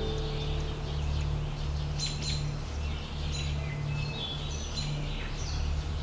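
Several birds chirping and singing, short calls and whistles overlapping, over a low steady drone.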